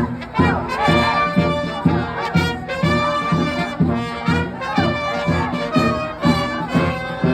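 Brass band playing, trumpet- and trombone-like horn lines over a steady drum beat.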